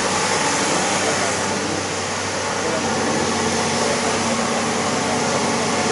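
Excavator's diesel engine running steadily, a constant dense mechanical noise.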